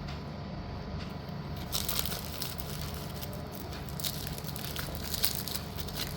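Dry, crunchy crackling and crinkling from handling yellow slate pieces and their packaging. It starts about two seconds in, over a steady low hum.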